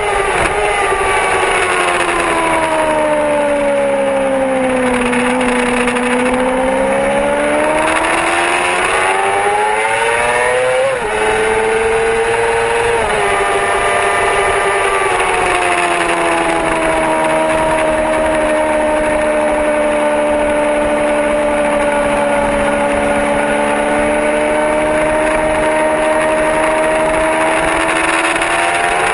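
Yamaha R6 inline-four sport-bike engine at track speed. Its note falls for several seconds as the bike slows, then climbs again. About eleven seconds in there is a brief dip and a drop in pitch as it shifts up, and a second step down a couple of seconds later. After that it holds a high, steady pitch that slowly creeps up, over constant wind and spray noise.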